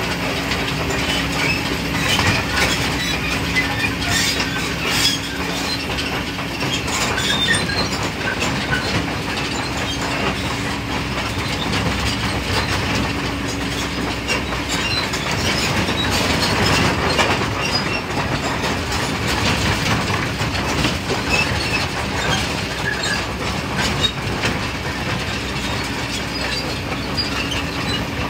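Excavator working, its diesel engine running with a steady hum under continual clanking and rattling. The hum fades about halfway through and returns near the end.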